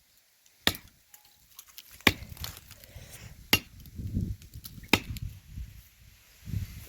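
Four axe blows biting into a dry tree trunk, evenly spaced about a second and a half apart, each a sharp crack.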